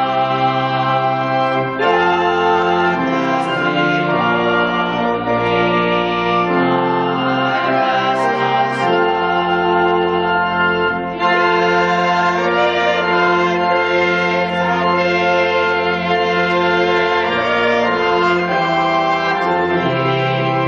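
Church organ playing sustained chords that change every second or two, as instrumental music after the closing hymn and final amen.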